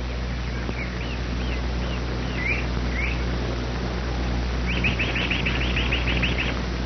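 Bird calls: a few single chirps sliding in pitch, then about two seconds later a quick run of about a dozen notes, over a steady low hum.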